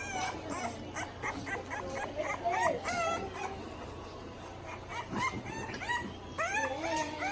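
Several bulldog puppies whining and yipping, with many short, high cries overlapping one another and a quieter stretch in the middle.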